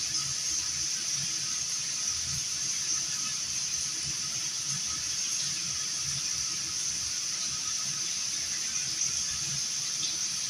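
Steady high hiss of constant background noise, with no change or distinct event.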